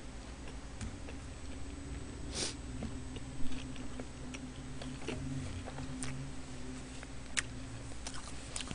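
Close-miked chewing and small mouth clicks of someone eating stew, with one sharper knock about three and a half seconds in.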